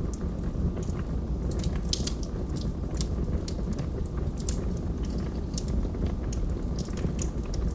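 Wood fire burning in a fireplace: a steady low rumble of flames with frequent sharp crackles and pops from the logs, several a second.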